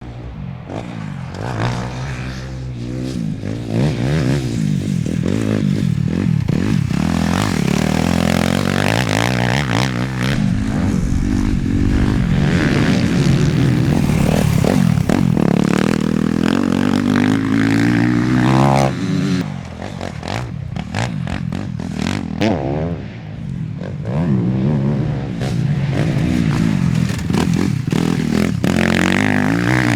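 Suzuki RM-Z motocross bike's four-stroke single-cylinder engine revving hard and backing off again and again as it is ridden around the track, its pitch rising and falling. It is briefly quieter a little past the middle, then loud again.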